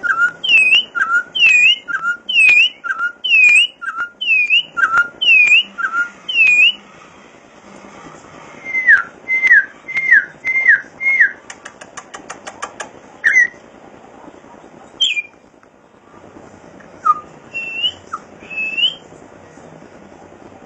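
A bird singing loud, clear whistled notes. First it repeats a two-part phrase of a dipping high note and a lower short note over and over, then it gives a run of five short sliding notes, a quick rattle, and a few scattered whistles near the end.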